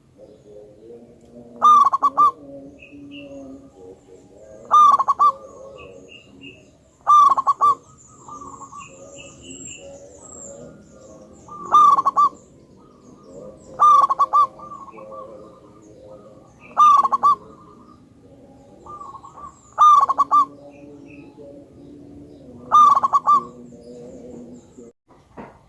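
Zebra dove (perkutut) singing: eight loud, short phrases of rapid staccato coo notes, repeated about every two to three seconds, with softer low sounds and faint high chirps between them.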